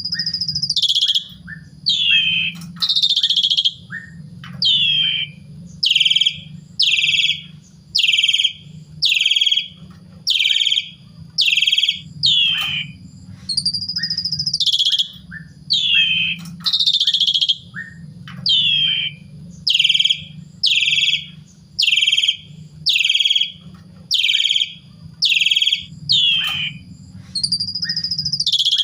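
Javan pied starling (jalak suren) singing a long run of loud, downward-sliding whistled notes, about one or two a second, with a few longer held whistles between them.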